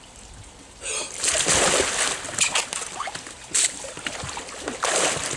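Water splashing and sloshing around a kayak as it is rocked and tipped during a stability test. The splashing starts about a second in, is loudest for the next second or so, and comes again in shorter surges twice more.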